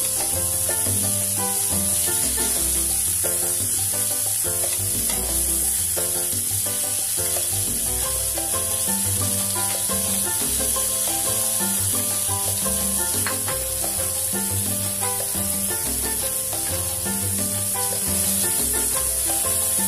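Shell-on shrimp sizzling steadily in a hot frying pan as they are turned with tongs, under background music with a melody and bass line.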